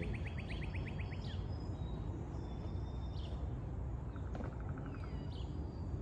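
Birds chirping outdoors over a steady low background hum: a fast trill of short notes in the first second, a lower, shorter trill about four seconds in, and a few single high chirps.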